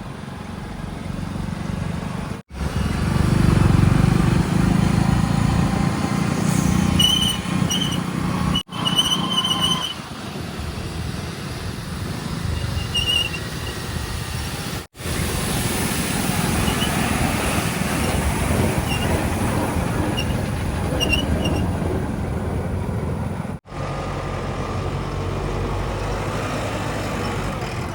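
Heavy diesel engines of earth-moving vehicles running at work, heard in several short clips joined by abrupt cuts, loudest about 3 to 5 seconds in. A few brief high chirps come through in the middle.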